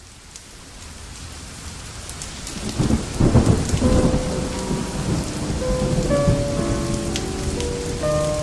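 Steady rain fading in, with a low rumble of thunder about three seconds in. From about four seconds, slow sustained music notes begin under the rain.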